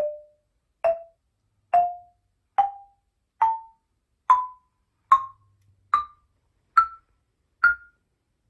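Wooden-bar Orff xylophone struck with a mallet, one bar at a time, about one note a second, climbing step by step from the low bars to the high ones. Each note rings only briefly.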